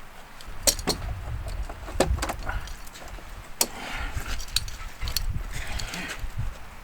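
Scattered sharp metal clicks and clinks as a come-along and its hook are rigged to a lifting strap, over an irregular low rumble.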